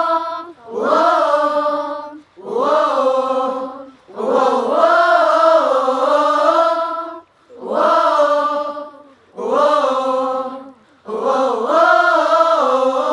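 High voices singing together without words in a string of about seven sustained phrases, each one to three seconds long, with brief pauses between them.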